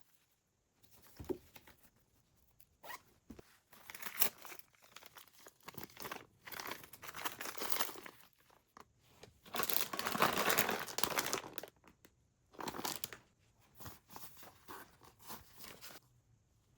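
Rustling and crinkling as crinkly material such as bags or packaging is handled, in irregular bursts with a few light clicks. The longest and loudest stretch starts about ten seconds in and lasts about two seconds.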